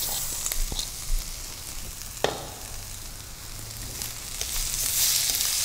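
Tofu, onion and corn frying in oil in a wok over high heat: a steady sizzle, with wooden spatulas stirring and scraping the pan. A few light clicks come early, then one sharp knock about two seconds in, and the sizzle grows louder in the last second or so as the tofu is stirred.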